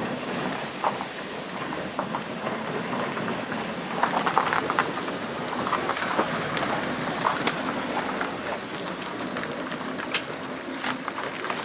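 Steam-hauled train going past on the line, its carriage wheels clattering over the rail joints with many sharp clicks over a steady rumble.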